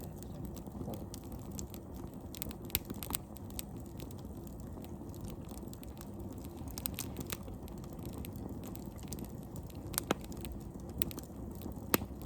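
Wood campfire crackling, with irregular sharp pops scattered throughout; the loudest pops come about ten and twelve seconds in.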